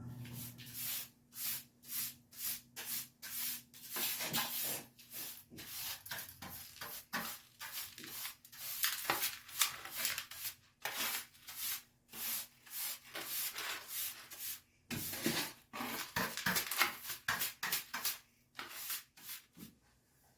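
Repeated short rubbing or scraping strokes, about two a second, pausing briefly about three-quarters of the way through and stopping just before the end.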